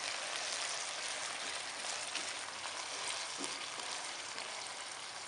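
Diced chicken, carrots and green capsicum sizzling steadily as they fry in oil in a pan, stirred now and then with a silicone spatula that gives a few light scrapes.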